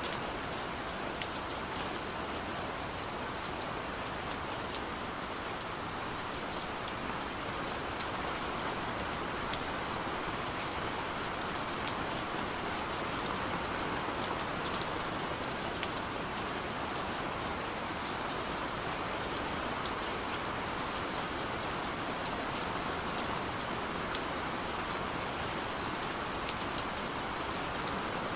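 Steady gentle rain falling, a constant hiss with scattered sharp drips of individual drops.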